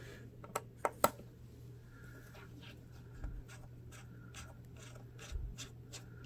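Light clicks and scraping of hand work on a laptop as the screen's screws are removed, with a few sharp clicks about a second in, the loudest of them near the one-second mark. A steady low hum lies underneath.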